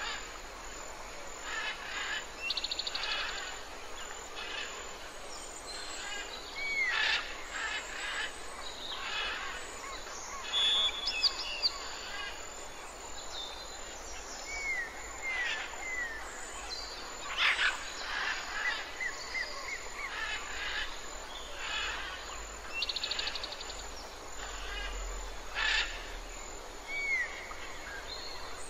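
Wild birds singing and calling together: many short chirps, curling whistled notes and quick trills from several birds, over a steady hiss of background ambience.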